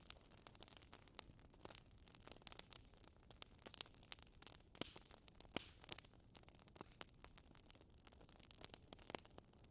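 A wood fire crackling in a fireplace: quiet, irregular pops and snaps, several a second, over a soft hiss.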